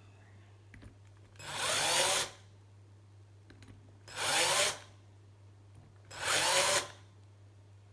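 Small electric drill run in three short bursts, each a little under a second long, with the motor's pitch bending as it spins up and winds down. It is used here for drilling lightening holes in a bicycle quick-release skewer.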